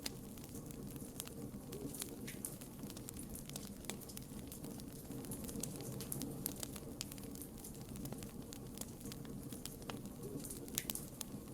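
Campfire burning, with irregular sharp crackles and pops from the wood over a steady low rumble of flames.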